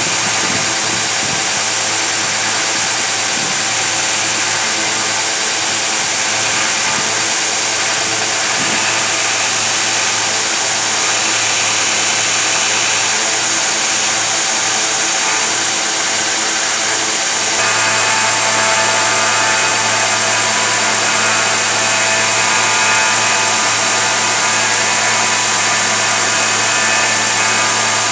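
Electric power tool running steadily in a knife-making shop. Its tone changes about two-thirds of the way through, becoming a little louder with a stronger hum.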